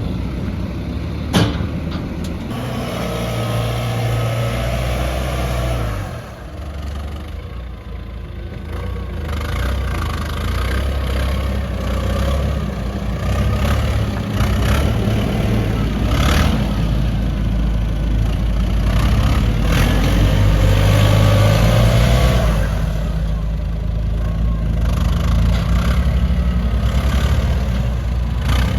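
Heavy earthmoving machinery running, the engine note rising under load twice, a few seconds in and again around twenty seconds in, with a few sharp clanks.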